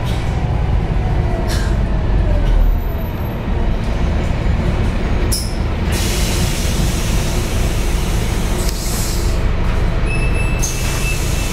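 Scania K230UB single-decker bus driving, heard from inside the cabin: a steady low engine drone, with short hisses of air and a longer stretch of hiss about halfway through.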